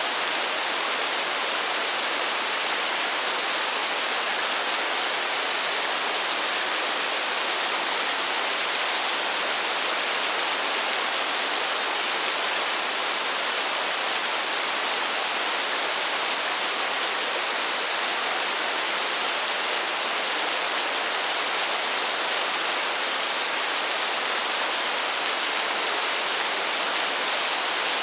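Steady rain falling in a forest, an even, continuous hiss with little low rumble and no change in strength.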